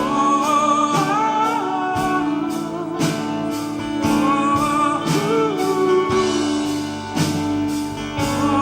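Gospel worship music: a band plays a steady beat under sustained chords, with a wavering melodic lead line between sung phrases.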